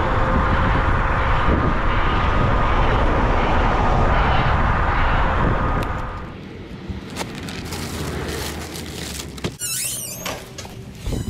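Wind rushing over the microphone with a faint steady whine while riding the Kaabo Wolf King GTR electric scooter. About six seconds in this gives way to quieter handling sounds: a metal mesh security gate squeaks as it is opened, then clanks shut near the end.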